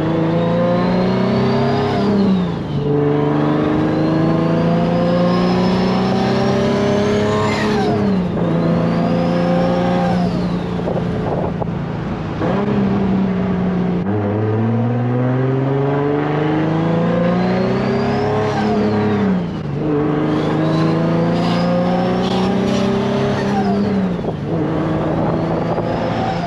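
Turbocharged Nissan 350Z's VQ35 V6 accelerating hard through the gears, with a high turbo spool whistle that rises with the revs. The pitch drops at each upshift, and there are two separate pulls, the second starting about halfway through.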